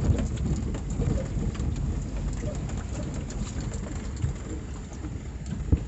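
Suzuki Super Carry mini truck rolling slowly over a gravel campsite track: a steady low rumble with tyres crunching and small stones crackling, and one sharp knock near the end.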